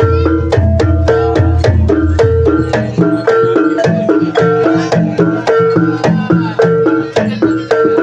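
Ebeg accompaniment music: tuned gamelan-style percussion plays a fast, repeating melody over sharp hand-drum strokes. A low bass layer underneath drops out about three seconds in.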